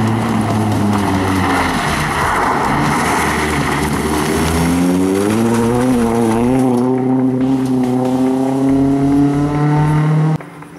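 Rally car engine running hard. Its pitch drops over the first couple of seconds, climbs steadily through the middle as it accelerates, then holds high before the sound cuts off abruptly near the end.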